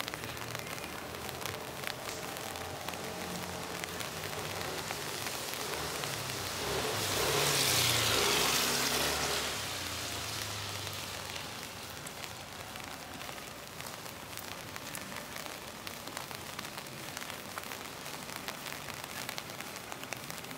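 Steady rain on a city street, with a constant scatter of small drop ticks. About seven seconds in, a louder hiss swells and fades over some three seconds: a vehicle's tyres passing on the wet road.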